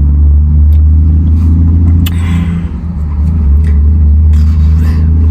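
Car driving on the road, heard from inside the cabin: a loud, steady low rumble of engine and road noise, with a brief hiss about two seconds in.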